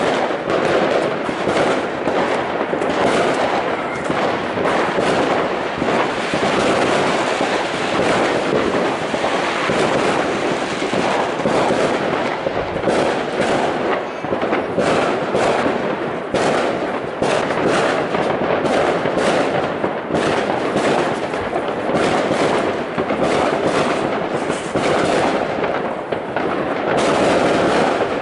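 Fireworks going off in a dense, unbroken barrage of many overlapping bangs and crackles.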